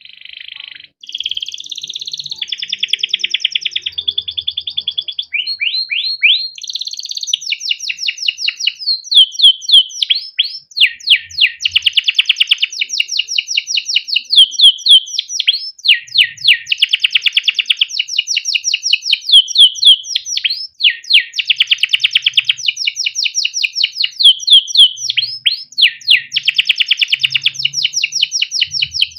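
Male domestic canary singing a long unbroken song: fast runs of repeated chirps ('cuit cuit') alternating with rolling trills ('ngerol').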